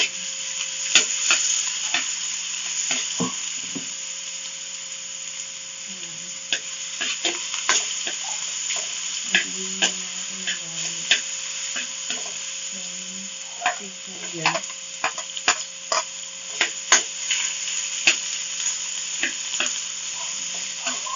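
Minced garlic and ginger sizzling in hot oil, with a metal spoon scraping and clinking irregularly against the pan as they are stirred.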